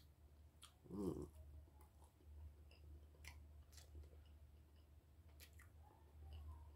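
Faint close-up chewing of a mouthful of breakfast food, with small scattered mouth clicks and a brief hum of the voice about a second in.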